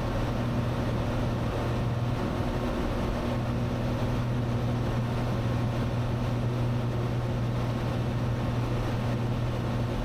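Steady in-flight drone of a Cessna 182's six-cylinder piston engine and propeller heard inside the cabin: a constant hum with one steady low tone, unchanging throughout.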